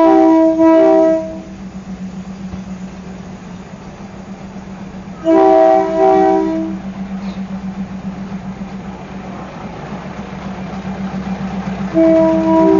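Diesel train sounding its horn three times, about six seconds apart, each blast with a short break in it, over the steady throbbing drone of its engine.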